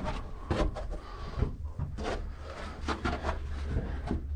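Irregular scraping, rubbing and knocking, the sound of people and gear moving against rock and mud in a cramped cave passage, with low rumbling handling noise on the camera microphone.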